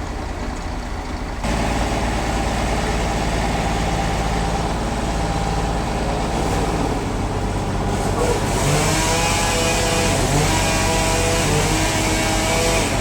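A heavy engine running steadily, stepping up louder about a second and a half in. In the last few seconds, wavering tones that rise and fall sound over it.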